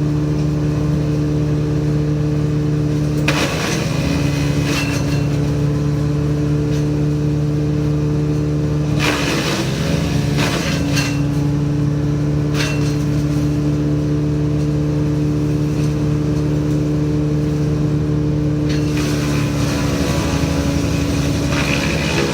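Woodchipper engine running steadily, its pitch sagging briefly as branches are fed in and chipped. There are crackling bursts about 3 and 9 seconds in, and shorter ones later.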